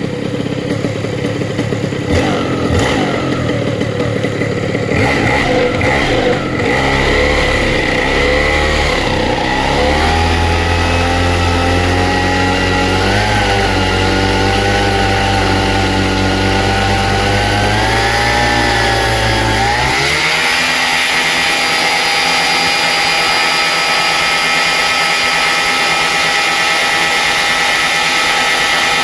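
Vittorazi Atom 80 two-stroke paramotor engine, fitted with a tuned expansion-chamber exhaust, run up for a thrust test. The revs climb and waver over the first ten seconds and hold high, then jump sharply about twenty seconds in and stay at a steady higher pitch.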